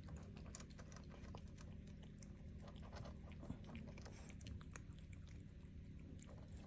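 A cat eating its food, faint irregular crunching clicks over a low steady hum.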